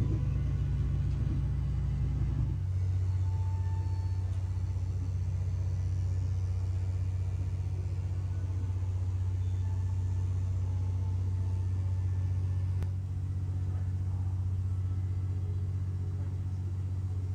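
Steady low rumble inside a carriage of the Cassiopeia sleeper train as it runs, its character shifting abruptly about two and a half seconds in.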